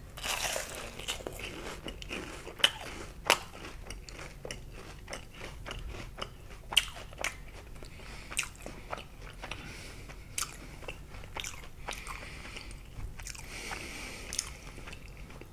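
Close-miked biting into and chewing a deep-fried, pancake-battered sausage patty with a glaze: a crunch on the first bite, then many sharp crackly crunches and clicks as the crisp batter is chewed.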